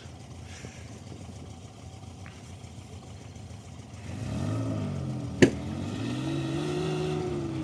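Off-road vehicle's engine running low, then revving up about four seconds in and holding at raised revs under load as the vehicle tries to pull on the climb, with one sharp click or knock just after the revs rise.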